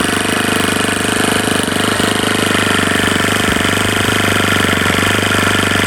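Saito 50 four-stroke model-aircraft glow engine running steadily at a fast, even beat on a test bench. Once an engine with no compression, it is now running really quite well.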